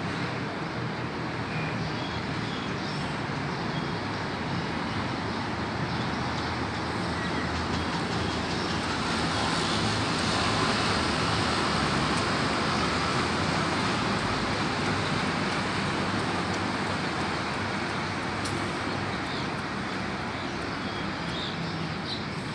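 Steady road traffic noise, a continuous rumble that swells louder about halfway through and then eases off.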